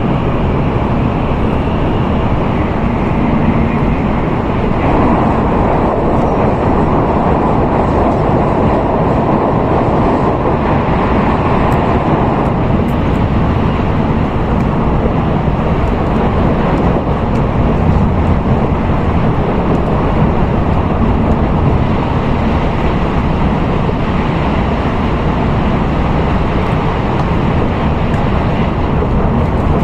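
N700A Tokaido Shinkansen running at speed, heard inside the passenger car as a steady rumble and rush of noise. About five seconds in it grows louder and brighter for some seven seconds, then settles back.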